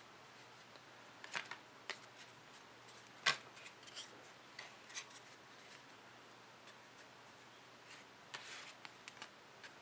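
Trading cards and packs being handled on a table: a few light clicks and taps, the sharpest about three seconds in, and a brief rustle near the end.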